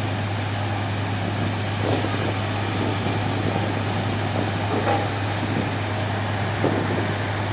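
Heavy engines running with a steady low hum, with a few faint knocks and clatters.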